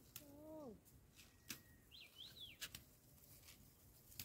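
Near quiet. A short low voice-like hum falls in pitch about half a second in, two quick high bird chirps come a little after two seconds, and a few faint clicks are scattered through.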